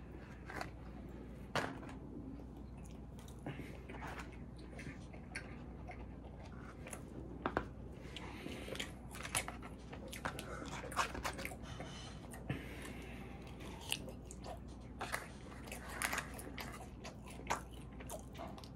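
Close-up eating sounds: chewing and biting with wet mouth noises, and scattered sharp clicks and scrapes from a plastic fork working in a foam takeout container.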